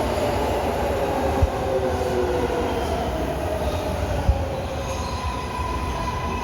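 MARTA rapid-transit train running on the rails over a low rumble, with a whine that slowly falls in pitch over the first couple of seconds. A steady, higher wheel squeal sets in about five seconds in, and two brief thumps are heard.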